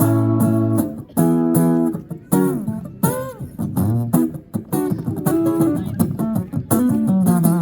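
Guitar played live: strummed chords in an instrumental stretch of a rock-blues song, with a few notes bent in pitch near the middle.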